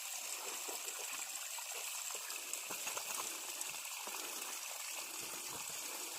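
Running water flowing steadily, with scattered light splashes as someone washes in it.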